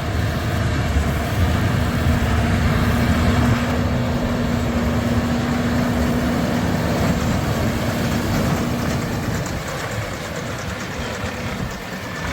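Fendt 939 tractor and Massey Ferguson 2270 square baler working a straw field: the tractor's engine running under load over the baler's continuous mechanical rumble. A steady hum holds from about two seconds in until about nine seconds, and the sound grows a little quieter near the end.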